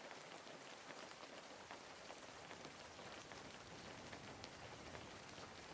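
Wood fire crackling faintly: a soft, steady hiss dotted with many small snaps and pops, with one sharper pop near the end.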